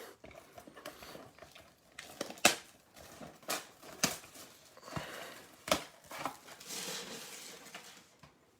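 Trading-card box being opened and handled: plastic wrap crinkling and tearing, with several sharp taps of cardboard and packs.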